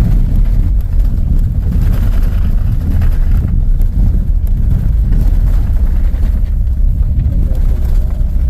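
A loud, steady low rumble, with no distinct tones or separate events.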